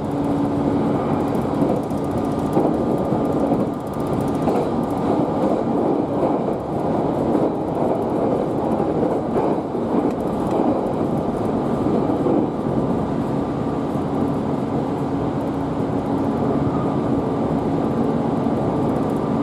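A train running, a steady rumble with a constant hum through it.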